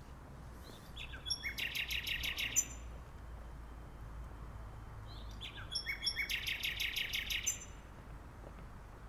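Nightingale singing two phrases about four seconds apart. Each phrase is a few short lead-in notes followed by a fast run of rapidly repeated notes. A low steady rumble runs underneath.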